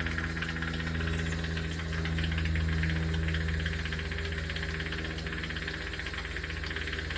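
Jeweler's soldering torch flame hissing steadily over a constant low electrical hum while a necklace link is heated to flow solder.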